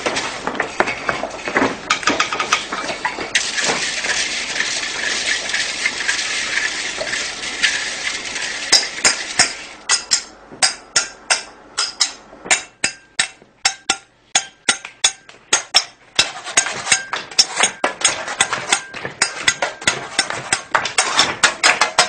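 Rhythmic percussion played on kitchen utensils: pots, pans and metal cans struck in sharp, clanking hits. From about four to eight seconds in there is a steady hissing rattle, and after that come separate sharp strikes in a quick rhythm.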